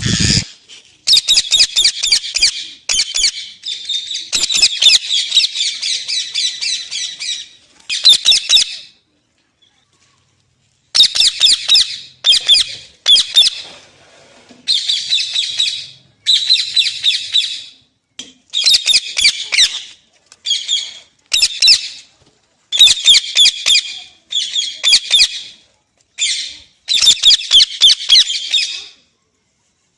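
Pet parrot squawking in a long series of harsh, rapid calls of a second or two each, with a pause of about two seconds around ten seconds in.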